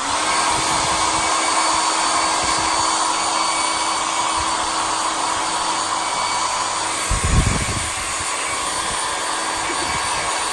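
Hand-held hair dryer switched on and blowing steadily to dry acrylic paint, a constant rushing of air with a faint motor hum under it. A brief low rumble about seven seconds in.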